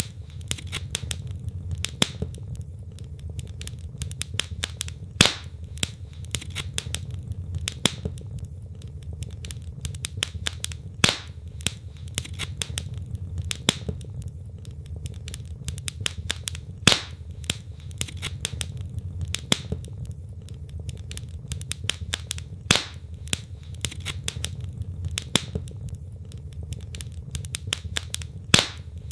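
Wood fire burning in a fireplace: continuous crackling of burning logs over a low rumble of flames, with a louder sharp pop about every six seconds.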